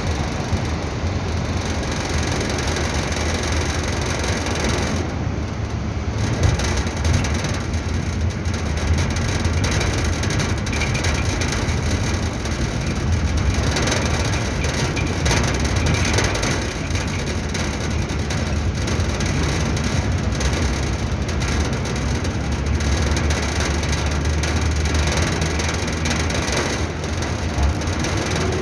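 Tata truck running with a steady low engine drone, overlaid with many small clicks and rattles.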